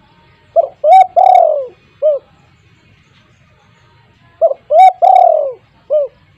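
Spotted dove (tekukur) cooing: two phrases of about four notes each, the third note the longest and falling in pitch, about four seconds apart.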